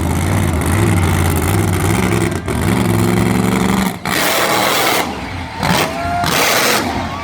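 Monster truck engine running deep and steady, then revving up, its pitch rising; about four seconds in it gives way to bursts of loud rushing noise.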